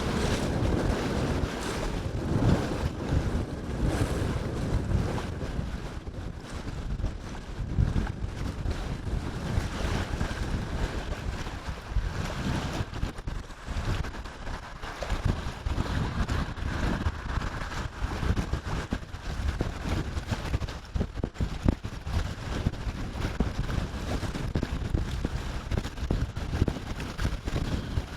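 Strong gusty wind buffeting the microphone, a heavy low rumble that swells and drops with each gust.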